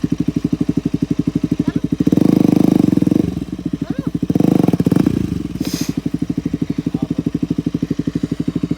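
KTM RC 200's single-cylinder engine idling with its exhaust in water, in a rapid, even pulsing, revved twice, about two seconds in and again around four and a half seconds. A short hiss comes just after the second rev.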